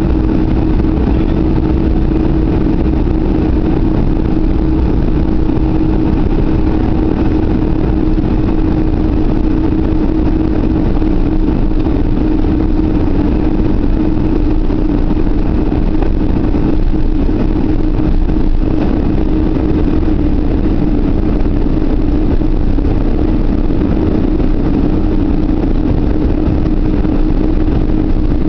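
Boeing 747 jet engines and cabin noise, heard from inside, running at an even, unchanging level with a steady hum.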